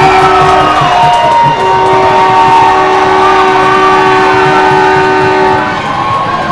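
Arena goal horn blowing after a goal, in two long blasts: a short one, then a longer one that stops about six seconds in.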